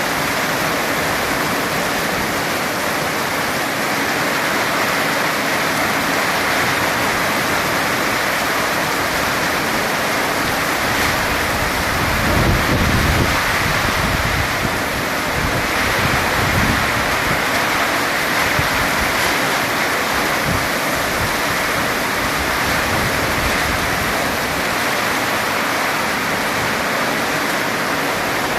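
Heavy rain pouring steadily, with two brief low rumbles around the middle.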